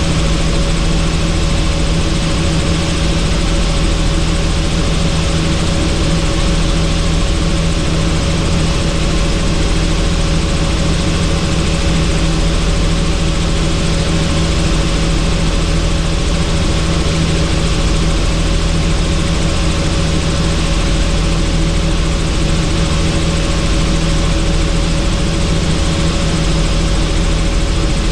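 Helicopter in flight heard from on board: a steady drone of engine and rotor with a constant hum and rushing air, unchanging throughout.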